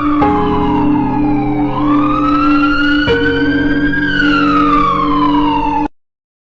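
Emergency vehicle siren wailing, its pitch sliding slowly down, up and down again over a steady low drone. It cuts off suddenly near the end.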